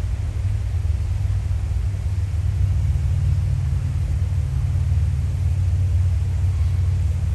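A steady low rumble, loud and unbroken.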